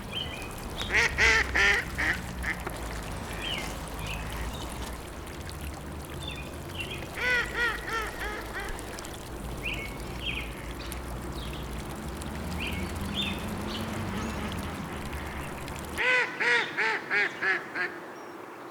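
Ducks quacking in three quick runs of several quacks each, with a few single calls between them, over a steady low background noise. The background cuts out abruptly near the end.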